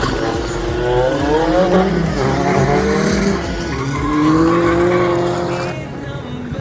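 Race car accelerating hard, the engine's pitch climbing steeply, dropping at a gear change about halfway through, then climbing again more slowly before falling away near the end.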